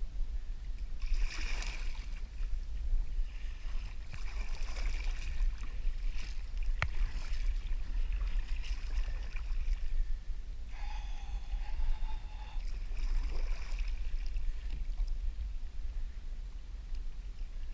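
Sea water splashing and sloshing against a fishing kayak in several bursts over a constant low wind rumble on the action-camera microphone. There is a sharp click about a third of the way in, and a short steady tone a little past the middle.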